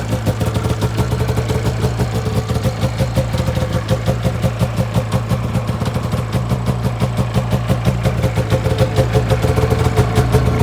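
2005 Arctic Cat Sabercat 700 snowmobile's two-stroke twin engine idling steadily, warming up after a cold start, with a rapid even pulsing beat.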